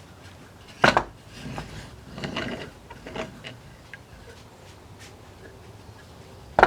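Wooden parts of a handmade 2x4 proof-of-concept model knocking and scraping: a sharp wooden knock about a second in, a few seconds of rubbing and scraping, then another sharp knock at the very end.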